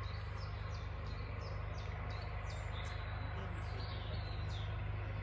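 A small bird chirping repeatedly, short high notes sliding downward about three times a second, over a steady low hum.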